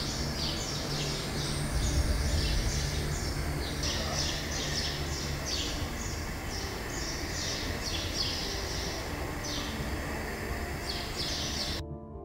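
Small birds chirping over and over, about two to three short chirps a second, over a steady low rumble; it all cuts off suddenly near the end.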